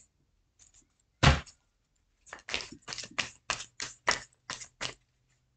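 Tarot cards being handled by hand: one sharp thump about a second in, then a run of about ten quick slaps of cards, roughly four a second, as the deck is shuffled.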